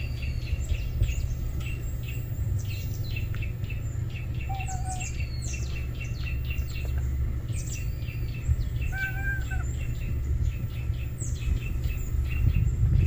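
Small birds chirping: many quick, high chirps that each drop sharply in pitch, coming in clusters, over a steady low rumble.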